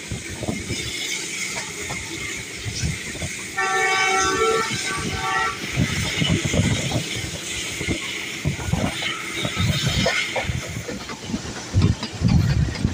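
Passenger train running on the track, its carriage wheels clattering over the rails, with a locomotive horn sounding one blast of about two seconds, a few seconds in.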